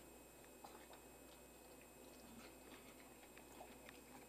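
Faint chewing of a mouthful of naan wrapped around chicken tikka masala: soft, scattered small clicks over near silence.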